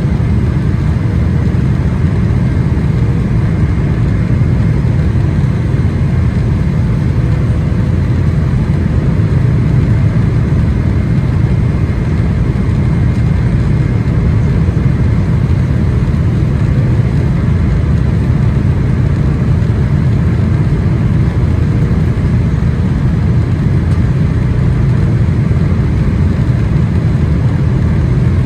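Steady cabin noise of a Boeing 777-300ER: a deep, even rumble of its GE90 engines and the airflow, with a faint steady hum on top. Nothing changes or breaks through the noise.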